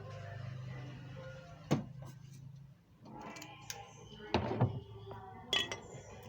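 A few sharp clinks and knocks of hard objects being handled, over a steady low hum that stops about three seconds in.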